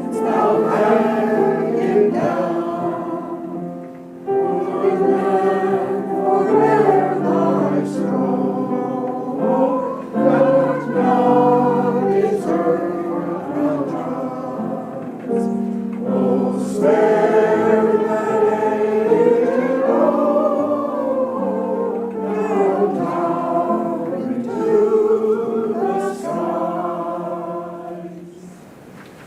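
Choir singing a song in sustained phrases. The singing ends about a second before the close.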